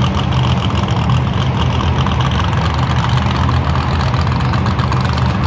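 Monster truck's supercharged V8 engine idling with a loud, steady low rumble.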